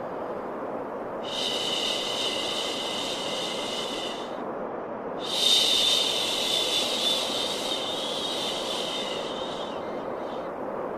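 Steady white-noise hiss with long shushing 'shhh' sounds laid over it: two shushes of about three and five seconds, with a short pause before each.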